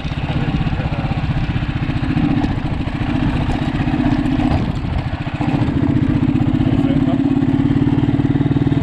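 Small motorcycle engine running steadily under way, with a brief dip in its note about five seconds in before it picks up again.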